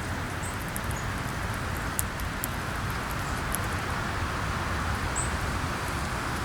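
Wind blowing steadily, with a low rumble on the microphone and rustling leaves, over scattered small clicks and a few short, high bird chirps.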